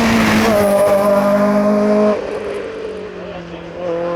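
Racing car engine held at high revs on a steady note, then dropping abruptly in pitch and loudness about two seconds in, and running on more quietly, climbing a little near the end.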